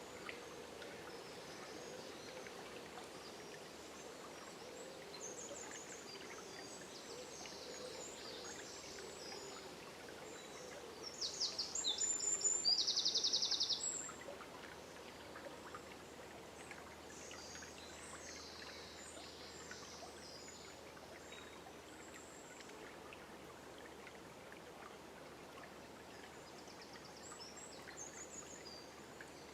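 River flowing steadily, with songbirds calling through it. About a third of the way in, a bird gives a loud, rapid trill of high repeated notes for a few seconds, the loudest sound here.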